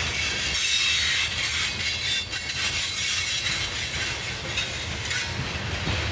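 Freight train of coal hopper cars rolling past: a steady low rumble of steel wheels on rail, with a high metallic squeal of wheels working through a curve.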